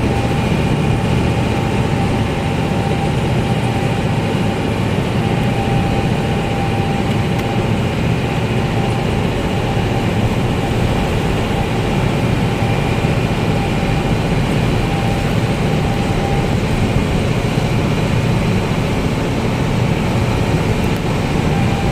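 Steady heavy engine rumble of marine diesels as a container ship is pushed alongside the berth, with a thin steady whine over it that fades out about three-quarters of the way through.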